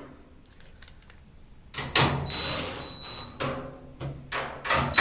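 Handling noise from a washing machine's plastic top cover being fitted: a scraping rub about two seconds in, then several sharp clicks and knocks.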